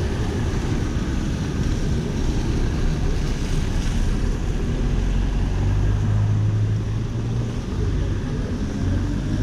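Steady rush of street traffic in the rain, with a vehicle engine humming louder for a few seconds past the middle.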